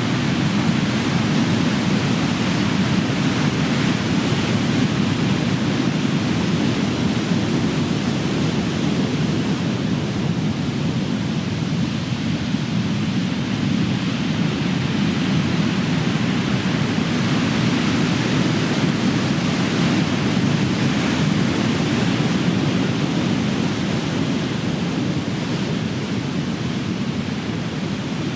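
Big ocean waves breaking and rolling onto the shore in a continuous deep rumble of surf that swells and eases slowly, building again about two-thirds of the way through.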